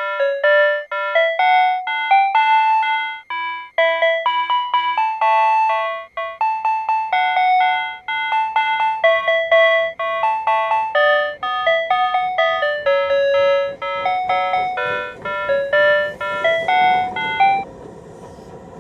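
PATLITE electronic platform annunciator playing its signal-clearance tone, a loud repeating melody of short bell-like electronic notes that tells a one-man train's crew the departure signal has cleared. The notes stop near the end, leaving a faint low rumble.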